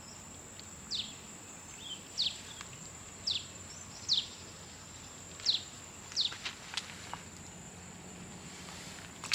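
A bird repeating a short, quick falling whistle about once a second, over a steady high-pitched insect hum. A few faint clicks come after the last calls.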